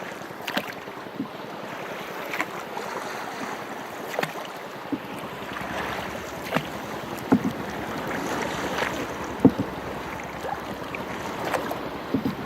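Sea water lapping and splashing around a small boat, with wind on the microphone and scattered sharp knocks against the hull, the loudest about nine and a half seconds in.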